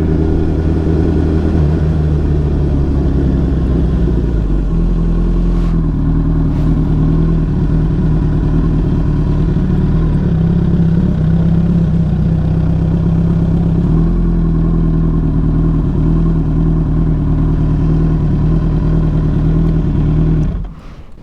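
Suzuki Hayabusa's inline-four engine running steadily under way, its pitch shifting slightly a couple of times, then cutting off suddenly near the end.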